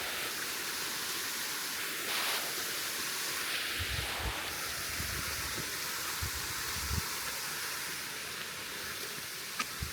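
Waterfall rushing: a steady hiss of falling water, with a few faint low thumps on the microphone.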